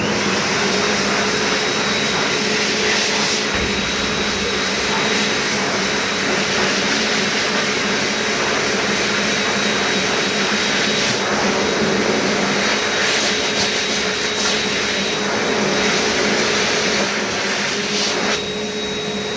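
Heatstore Tornado Select hand dryer switching on suddenly and running steadily: a loud, even rush of blown air with a constant motor whine.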